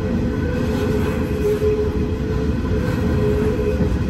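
Coal train's hopper wagons rolling past at close range: a steady rumble of steel wheels on rail, with a thin steady tone over it.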